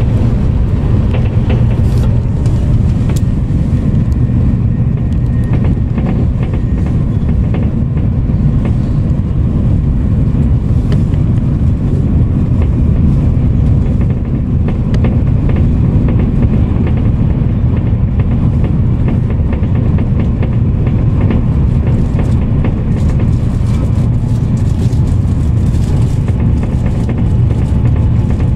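Steady low rumble inside the passenger car of an Italo high-speed train running at high speed, with faint clicks now and then.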